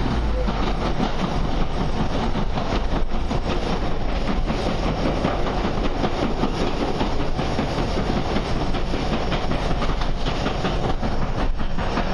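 Passenger train running along the track, heard from inside the carriage: steady wheel-on-rail noise with frequent clicking over the track.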